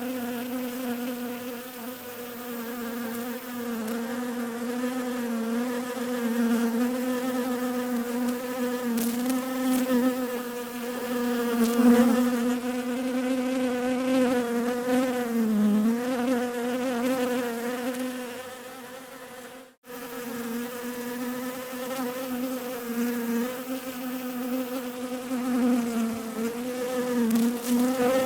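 Bees buzzing in a continuous, steady drone whose pitch wavers slightly, cutting out for an instant about twenty seconds in.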